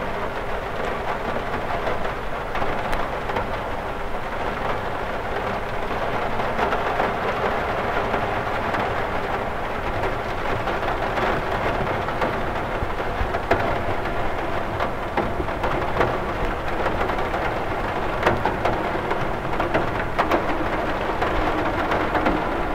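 Steady rain falling on a window, an even hiss of drops with sharper individual drop ticks now and then.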